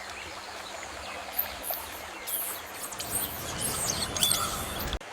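Birds chirping in short high calls over a steady outdoor background hiss.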